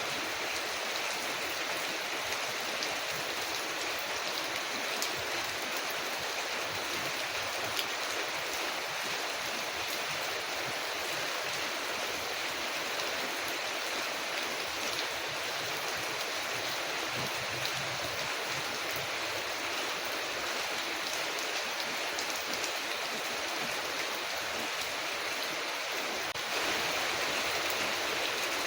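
Steady rain falling on a window, an even dense hiss with a few faint scattered ticks, growing slightly louder near the end.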